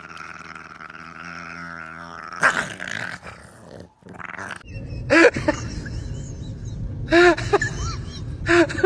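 A dog vocalizing: a long drawn-out whine, then after a break three bursts of short yelping calls.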